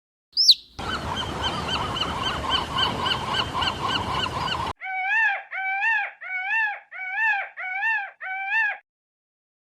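Large waterfowl honking. A short squeak comes first, then about four seconds of quick repeated calls over a hissing background, then six separate honks at an even pace of about two-thirds of a second each.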